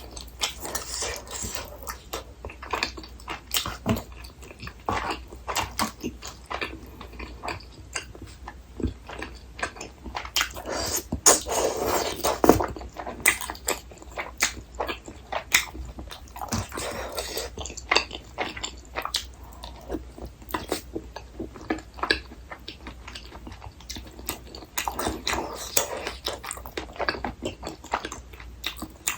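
Close-miked chewing and mouth smacking of rice-cake tteokbokki in rosé sauce, with many short sticky clicks, and several longer wet stretches about a third of the way in and again later.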